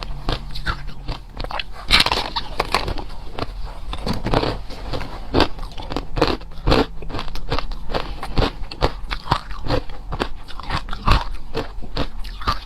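A person biting and chewing ice close to the microphone: rapid, irregular crunches of crushed and hard ice, several a second, with a louder bite about two seconds in.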